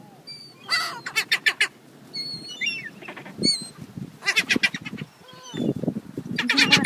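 Seagulls calling: several quick series of harsh, repeated cries, with thin high squeals between them, over a low rushing background.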